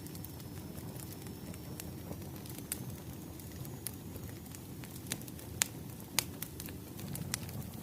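Wood fire crackling: a low steady rumble with scattered sharp pops, two louder ones a little past the middle.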